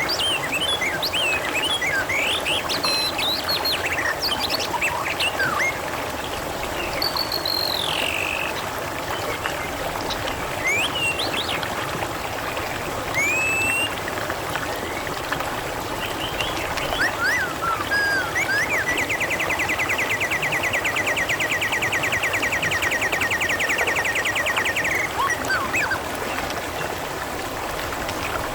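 Water trickling steadily, with many short bird chirps and whistles scattered over it and a rapid, even trill lasting several seconds past the middle.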